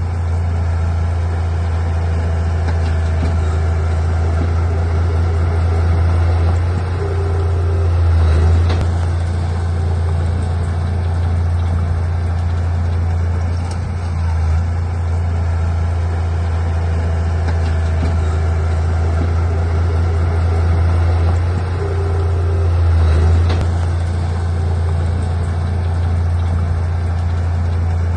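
Bulldozer's diesel engine working under load, a steady low drone that swells twice, about eight seconds in and again about twenty-three seconds in, with a faint knock near each swell.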